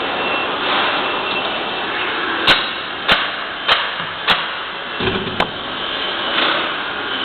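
CNC milling-engraving machine running with a steady whir, with four sharp clicks about half a second apart in the middle and a low thump soon after.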